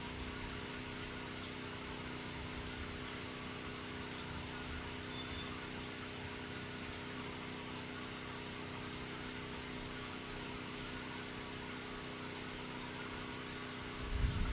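Steady mechanical drone of a distant engine-driven machine, a compressor or generator by the uploader's account, with a couple of held tones over a constant hiss. A brief low thump near the end.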